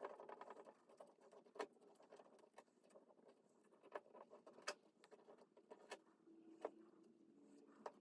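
Faint, scattered clicks and taps from small parts being handled, about five over several seconds, with near silence between. A brief wavering whine sounds at the very start.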